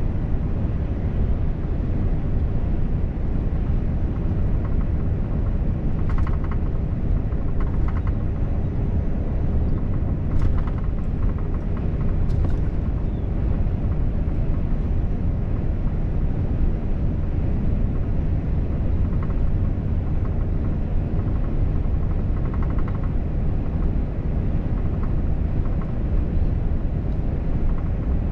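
Volvo FH truck driving steadily at road speed: a constant low engine and tyre-on-road drone, with a few faint brief clicks in the first half.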